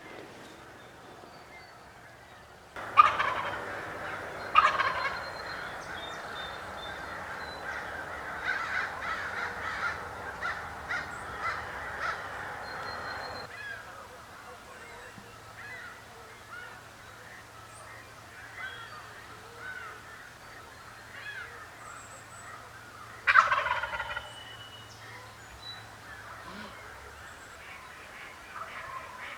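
Wild turkey gobbling: two loud gobbles close together about three seconds in and another well past the middle. A dense chatter of bird calls fills the first half.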